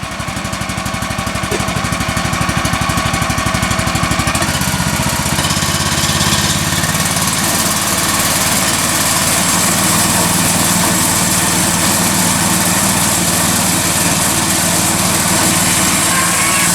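Small gasoline engine of a Woodland Mills 126 portable sawmill running just after being started, first with a fast, uneven pulsing. About four seconds in the running picks up and settles into a steady, very smooth run as the freshly started engine warms and clears.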